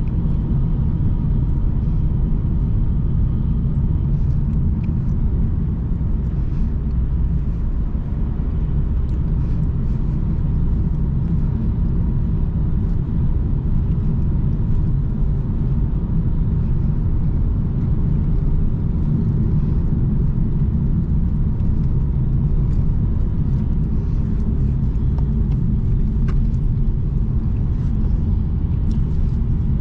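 Car driving steadily along a road: an even, low rumble of engine and tyre noise.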